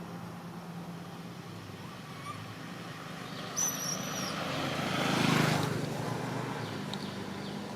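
A motor vehicle passing by: its sound swells to a peak about five seconds in and fades again, over a steady low engine hum. A brief high chirp comes just before the peak.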